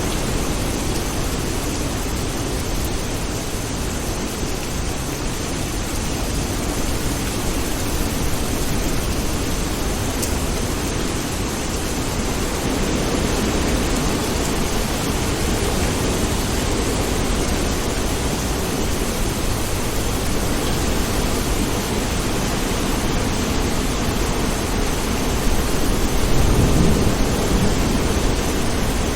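Steady rain with low rolling thunder, the rumble swelling briefly near the end.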